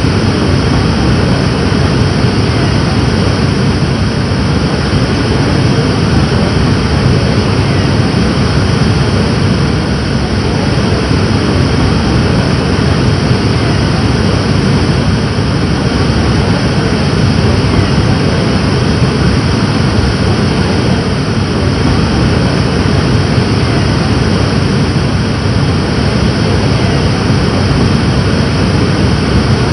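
Rushing water: a loud, steady, unbroken rush, heaviest in the low range.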